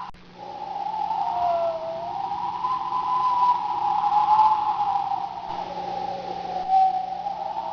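Storm wind howling, a single whistle-like tone that wavers up and down in pitch.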